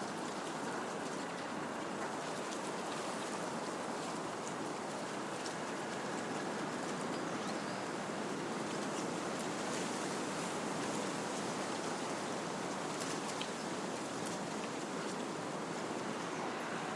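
Wind blowing through trees: a steady rushing of leaves and branches that stays even throughout, with a few faint scattered ticks.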